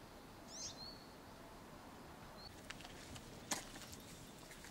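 Quiet outdoor ambience with a few faint bird chirps: a short falling call about half a second in and a softer one midway. A single sharp click comes later.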